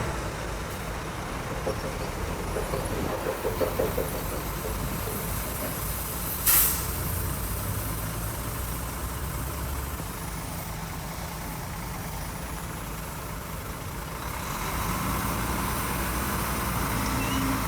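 Heavy diesel earthmoving machinery running, with a few clanks about three to four seconds in and a short, loud air hiss about six and a half seconds in. The engine rises again near the end.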